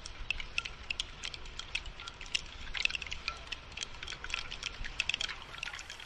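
Rain falling in quick, irregular drips and taps on hard surfaces, over a light hiss. A low rumble runs underneath and stops just after the end.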